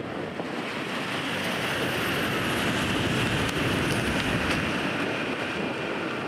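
Doctor Yellow (923 series inspection Shinkansen) passing at speed on the elevated line: a rushing sound of wheels on rail and air that swells to its loudest a few seconds in, then eases a little.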